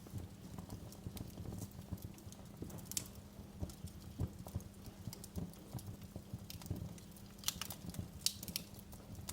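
Wood fire crackling in a fireplace: a low steady rumble of the flames with irregular pops and snaps, a few sharper snaps about three seconds in and near the end.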